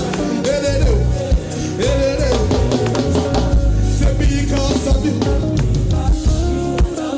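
Band playing a song: a sung melody over a drum kit's steady beat, with guitar.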